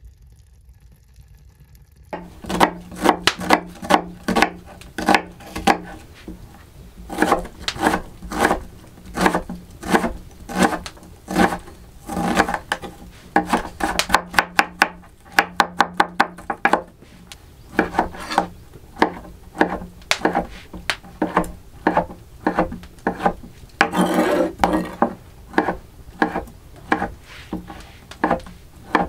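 An irregular run of sharp wooden knocks and chops, about two or three a second, beginning about two seconds in and pausing briefly now and then.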